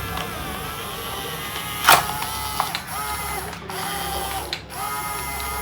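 A small motor whining in three short runs, with a sharp click about two seconds in.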